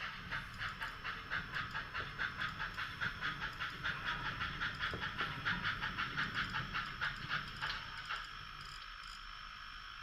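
HOn3 model steam locomotive's sound unit chuffing rapidly, about five chuffs a second, over a low running rumble. The chuffs fade out about eight seconds in as the locomotive comes to a stop.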